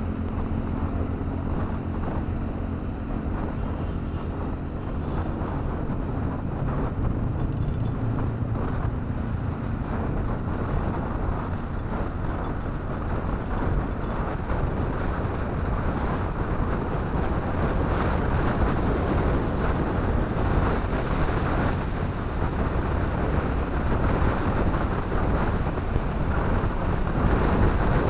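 Motorcycle running along the road, heard from the rider's microphone with steady wind noise over it, getting a little louder near the end.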